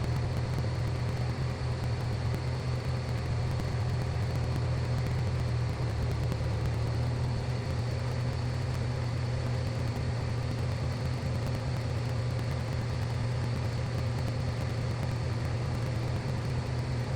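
Piper Cherokee's engine and propeller droning steadily in the cabin during the climb, a constant low hum with a faint high whine above it.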